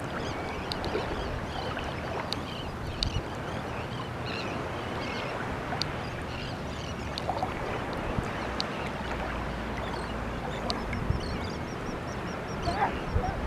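A crowd of seabirds, gulls and terns, calling over and over with short overlapping cries as they feed over a school of fish, against a steady background of wind and water noise, with scattered sharp ticks.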